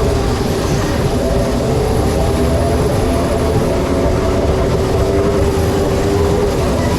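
A theme-park ride running with a steady, loud rumble and an even mechanical hum.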